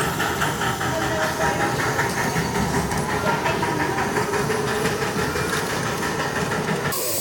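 A 7¼-inch gauge miniature live steam train running on the track, with a fast, even rhythmic clatter. Right at the end the sound cuts to a loud hiss of steam.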